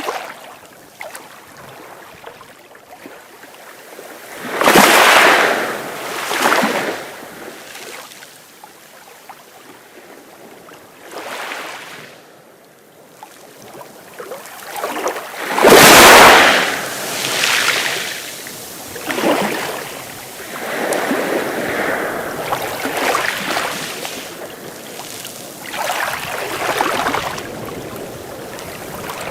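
Sea waves breaking and washing up the shore in repeated surges, each swelling and fading over a second or two, the biggest about halfway through, with a quieter wash between them.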